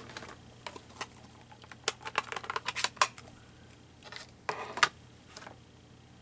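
Stamping supplies being handled on a desk: a quick run of small plastic clicks and taps about two seconds in, and a short scuffing rustle later on.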